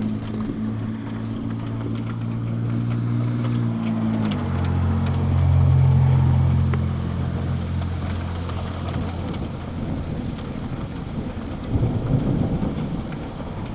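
Steady rain during a thunderstorm, with a vehicle engine humming that drops in pitch about four seconds in, swells and fades away. Near the end comes a short, loud, rough rumble.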